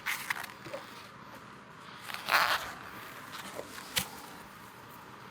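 Beehive being opened: the parts are scraped and pried apart, with a short scrape at the start, a louder longer scrape a little over two seconds in, and a sharp click near four seconds.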